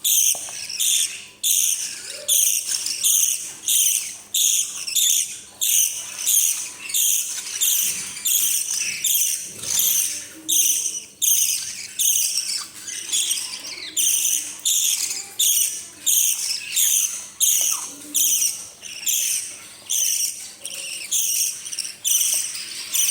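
Parrot chicks giving rasping begging calls while being fed, repeated about twice a second without pause.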